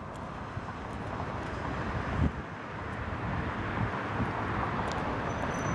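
Steady rumble of a distant jet airliner on approach, an Airbus A340-300, slowly getting louder, mixed with wind on the microphone. A single short bump about two seconds in.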